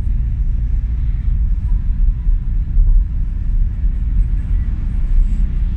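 Steady low rumble of truck engines in slow highway traffic.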